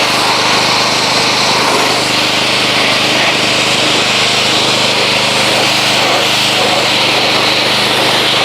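Pressure washer running steadily, the motor humming under the loud hiss of the water jet from its flexible wand as degreaser is rinsed off an engine bay.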